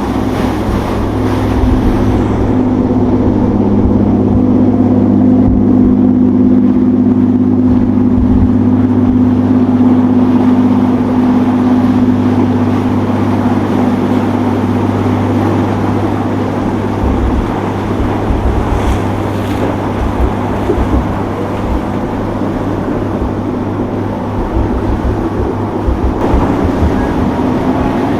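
Motorboat engines running steadily, a continuous drone with a rough low rumble.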